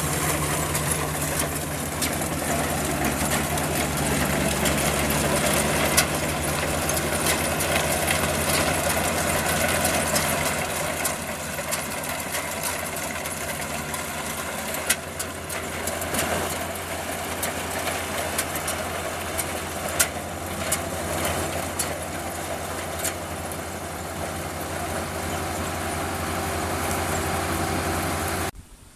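Combine harvester engine running steadily with machinery clatter and sharp knocks, cutting off abruptly just before the end.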